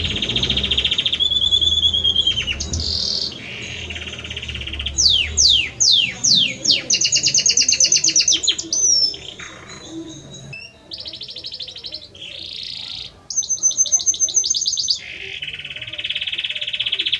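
Belgian canary (domestic canary) singing a long, varied song of fast trills and rolling repeated-note phrases, with a run of quick downward-sliding whistles about five seconds in.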